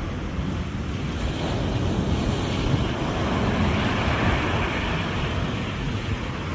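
Ocean surf: waves breaking and washing in as a continuous rush that swells a little partway through, with wind rumbling on the microphone.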